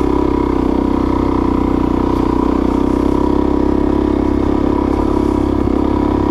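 Suzuki DRZ400S's single-cylinder four-stroke engine running steadily at an even speed, without revving.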